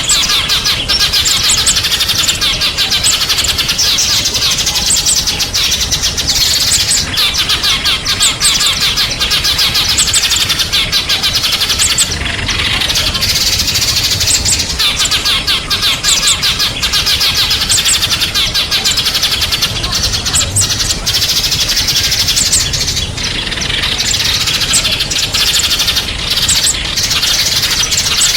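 Small songbirds chirping and twittering in a dense, unbroken run of fast, high-pitched notes.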